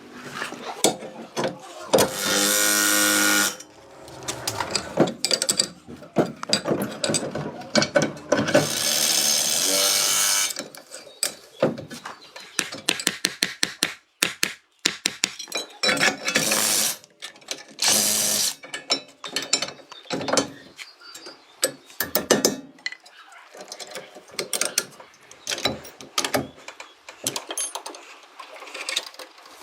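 Workshop tool sounds from car restoration work: many sharp clicks and ratcheting knocks, broken by a few loud runs of a power tool lasting a second or two each.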